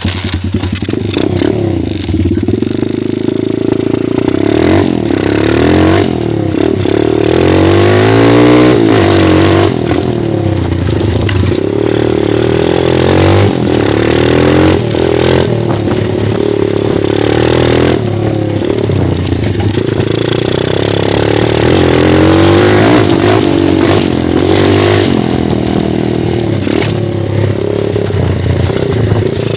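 Dirt bike engine running hard, revving up and easing off over and over as the bike is ridden around, with the pitch climbing and dropping every few seconds.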